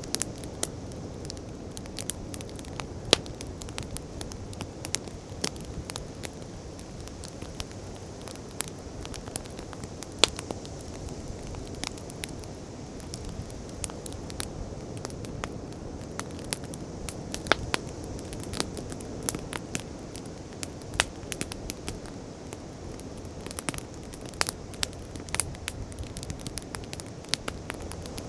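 Wood bonfire crackling, with frequent irregular sharp pops and snaps, over a steady rush of sea waves.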